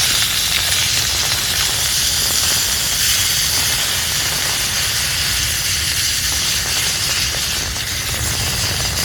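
Mince frying in a pan on a camp stove, a steady sizzling hiss with a low rumble underneath.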